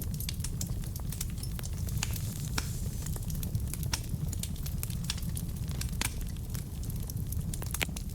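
Log fire burning in a fireplace: a steady low rumble of the flames with frequent sharp, irregular crackles and pops from the burning wood.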